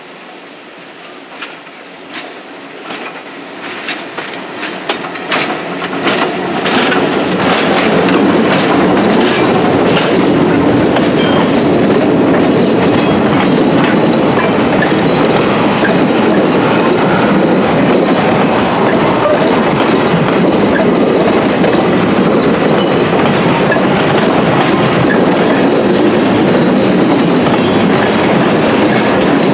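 Excursion train approaching and passing close by. Wheels click over rail joints, growing louder over the first several seconds, then a steady loud rolling noise of the train going past.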